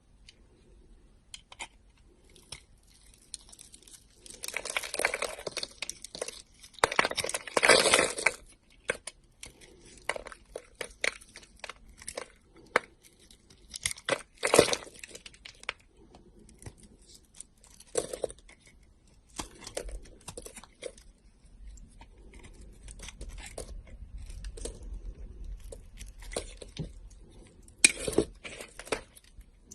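A knife cutting through a bar of soap: irregular crunchy, crackling cuts and scrapes, with several longer, louder crunches between quieter clicks.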